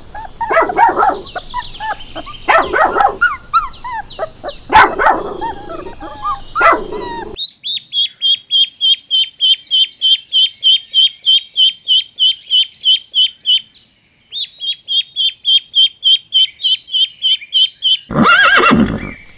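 A string of animal calls. First, several seconds of mixed loud calls. Then rapid high chirping, about five chirps a second with a short break midway. Then one loud call near the end.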